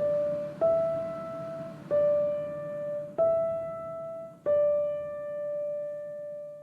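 Background music: a slow melody of five single piano notes, each struck and dying away, the last one held and fading out near the end.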